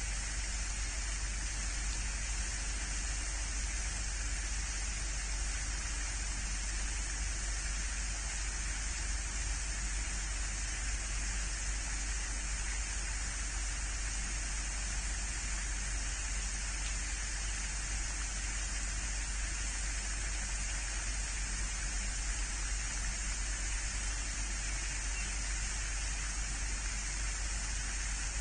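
Steady, even hiss with a low hum beneath it, unchanging throughout.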